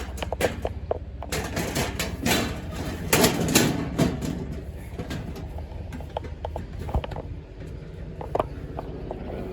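Clattering knocks and clicks of raised garden bed parts being handled and slotted together, densest from about a second to four seconds in, then scattered single knocks.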